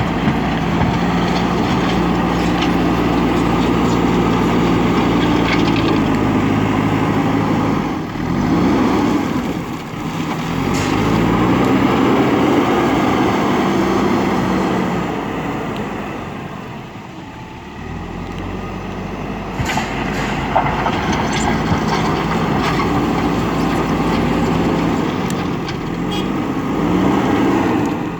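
Diesel engine of a JCB backhoe loader working, its pitch rising and falling several times as it revs up under load and drops back, with a quieter lull past the middle. A few short knocks come about twenty seconds in.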